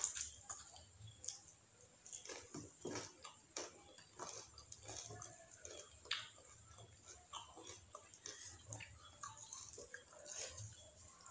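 Close-miked chewing and mouth sounds of someone eating: a string of irregular small crunches, lip smacks and wet clicks.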